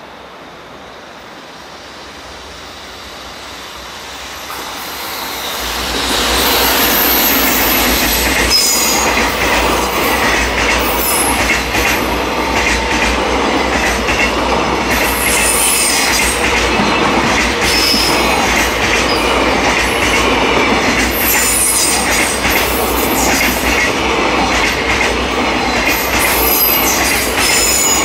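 A JR Freight container train passing close by. Its noise grows louder over the first six seconds as the electric locomotive approaches. Then the loaded container flatcars keep up a loud, steady rumble and clatter of wheels on the rails, with repeated high-pitched wheel squeals.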